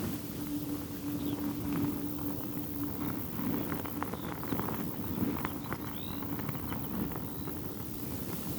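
Strong wind buffeting the microphone while a thin silk veil flaps in it, with many quick soft snaps of the fabric. A steady low hum runs underneath, and a few short high chirps come through.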